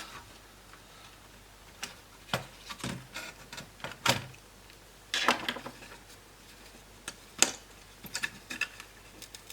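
Laptop parts being handled during disassembly: scattered plastic and metal clicks and light knocks, with a short scraping rustle about five seconds in.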